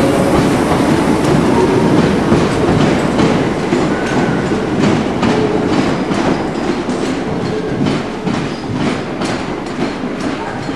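First Capital Connect Class 319 electric multiple unit pulling out, its coaches rumbling past. From about four seconds in, its wheels click rhythmically over rail joints and pointwork, about two a second, fading slightly as it draws away.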